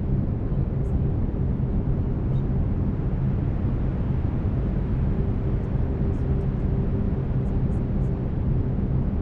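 Steady brown noise: an even, deep rushing hiss, strongest in the low end.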